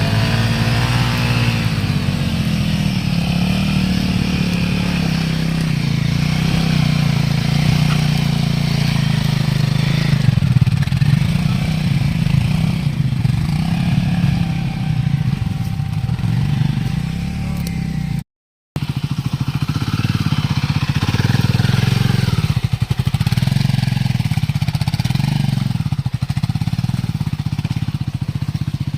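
Motorcycle engine running at low to moderate revs, its note rising and falling unevenly as it works over rough ground. The sound cuts out completely for a moment about two-thirds of the way in.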